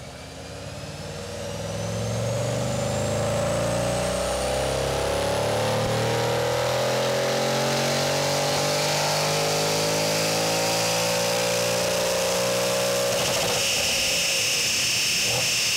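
Audi RS6 4.0 TFSI twin-turbo V8, fitted with upgrade turbochargers, downpipes and an aftermarket exhaust, pulling hard on a chassis dyno during a baseline power run, its note climbing steadily in pitch for about 13 seconds. Near the end the engine note gives way to a high, steady whine.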